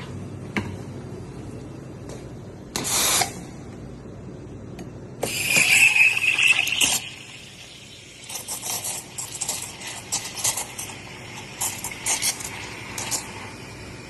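Coffee machine steamer hissing: a brief burst, then a louder hiss with a steady whistle for about two seconds, followed by a run of irregular clinks and rattles.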